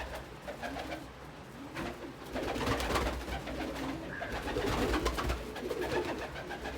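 Domestic pigeons cooing: several low calls that rise and fall, one after another, amid light scratching and shuffling in the loft.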